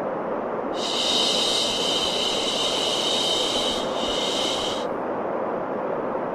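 Steady white noise for baby sleep, with one long shushing "shh" laid over it, starting about a second in and lasting about four seconds.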